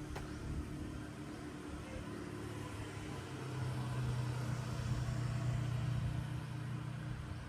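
A motor vehicle passing by: a low engine hum that swells about halfway through and eases off near the end.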